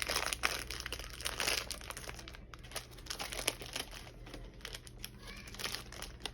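Plastic snack-cake wrapper crinkling in a series of irregular crackles as it is handled and pulled open.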